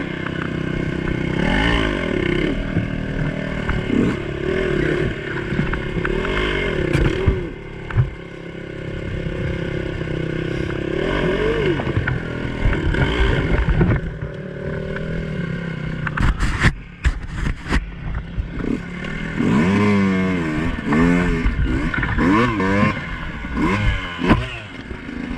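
Two-stroke enduro dirt bike engine revving up and down over and over as it is ridden along rough trail, with a few sharp knocks and clatter about two thirds of the way through.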